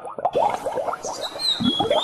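Recorded chorus of many small calling birds: dense, overlapping short chirps that sweep upward, with a few higher whistled glides above them. It drops briefly at the start before picking up again.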